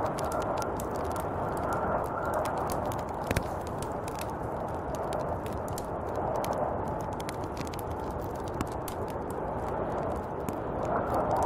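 Snowstorm wind blowing steadily, with a gust swelling near the end, and many small sharp ticks and crackles scattered throughout, one louder tick about three seconds in.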